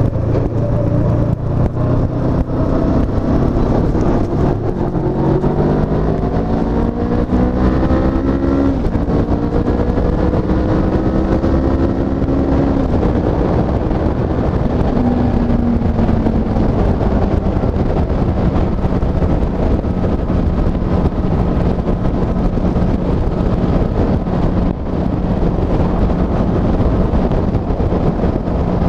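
Honda CB500F's 471 cc parallel-twin engine accelerating hard, its pitch rising through one gear, dropping at an upshift about nine seconds in, then rising again through the next gear. After that it backs off and runs at a steady cruising speed.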